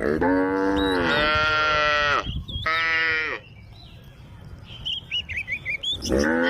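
A cow mooing: one long call, a shorter second call about two and a half seconds in, and another beginning near the end.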